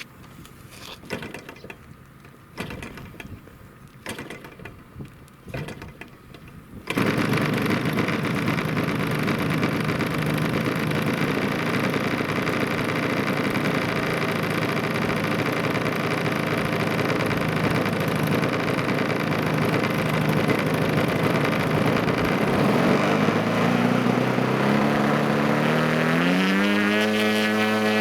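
A few light clicks and knocks, then about seven seconds in a radio-controlled model airplane's engine and propeller start suddenly and run steadily. Near the end it is throttled up, its pitch rising over a few seconds and then holding higher.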